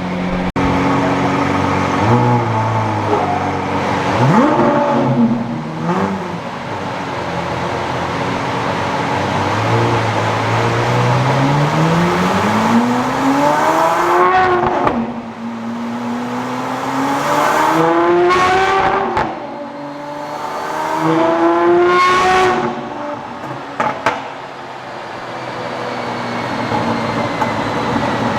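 Lamborghini Aventador's 6.5-litre V12 with an aftermarket exhaust on a chassis dyno: a few short blips of the throttle, then a long full-throttle pull climbing in pitch. The pull is broken by sudden drops in pitch about every four seconds before the engine falls back to idle.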